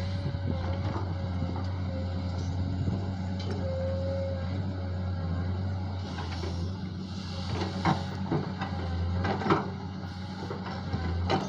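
Diesel engine of a JCB backhoe digger running steadily, with a constant hum and a steady whine above it. In the second half come several sharp knocks.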